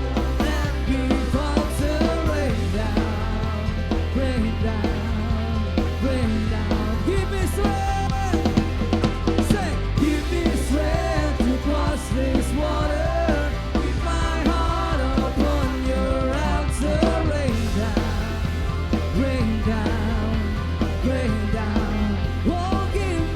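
Live worship band playing a rock song, with a drum kit, a steady bass and singing.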